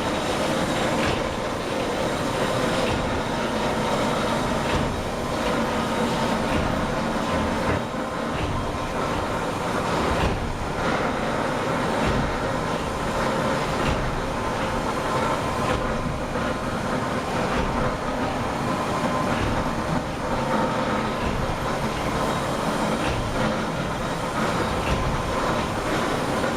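Engine room of the steam whale catcher Southern Actor, with its triple-expansion steam engine running under way: a loud, steady mechanical clatter and hum with a faint repeating beat.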